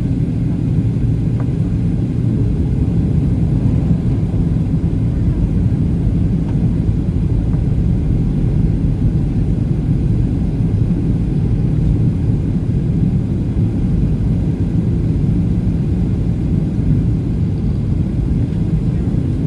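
Boeing 737-800 cabin noise: the CFM56-7B engines and airflow make a steady, even, low rumble.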